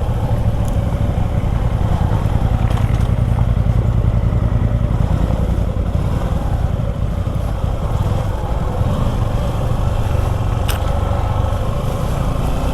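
Suzuki V-Strom 250 SX's single-cylinder engine running steadily while riding on a rough trail.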